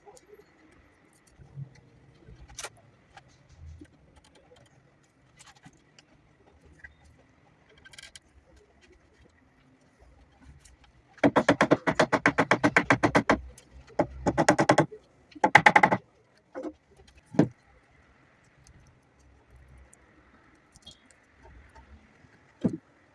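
Three short bursts of a rapid, even rattle from a woodworking tool, the first lasting about two seconds and the next two shorter, among scattered light knocks of wood being handled.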